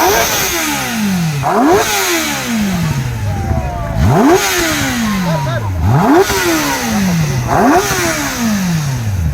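Motorcycle engine free-revved in quick throttle blips, about one every two seconds, five in all. Each time the pitch shoots up and then winds slowly back down toward idle.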